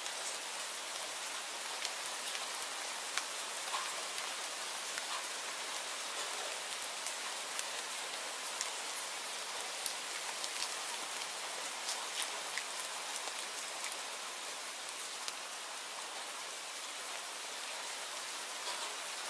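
Steady rainfall, an even hiss with individual drops ticking sharply on a hard surface a few times a second.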